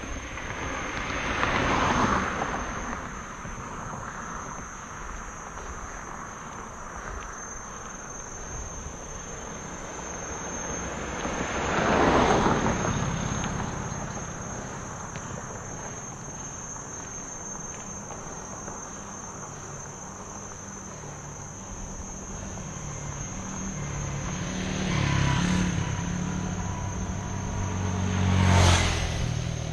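Motor vehicles pass by four times, each one swelling and fading away, with the last two close together near the end and carrying a low engine hum. Under them runs a steady, high-pitched drone of insects.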